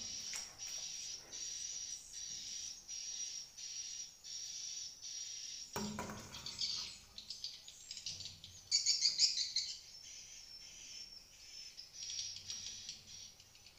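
Edible-nest swiftlets twittering: a run of short high chirps repeating about twice a second, a single thump about six seconds in, then a louder burst of twittering a few seconds later.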